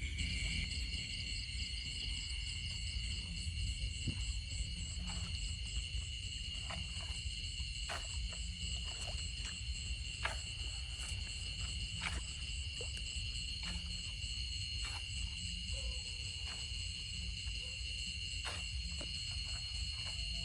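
Steady outdoor insect chorus, a continuous high buzzing at several pitches at once, over a low rumble, with scattered sharp clicks and taps throughout.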